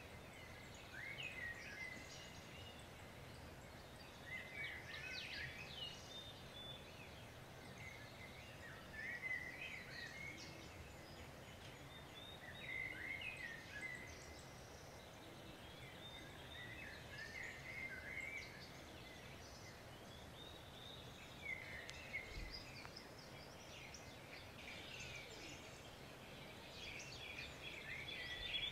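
Faint birds chirping in short bouts of rapid, jagged calls every two to three seconds, over a steady low background hiss.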